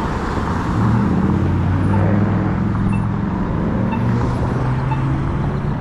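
Wind rushing over the microphone of a rider on an electric scooter, with the low steady hum of a nearby motor vehicle that grows louder about a second in.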